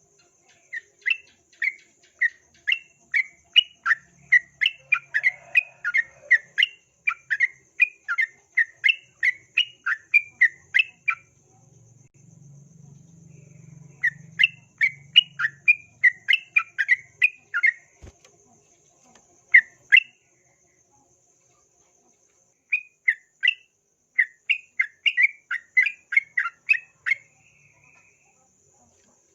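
Yellow-vented bulbul (trucukan) singing rapid runs of short sharp notes, about two to three a second, in three bouts with short pauses between. A faint steady insect trill runs underneath.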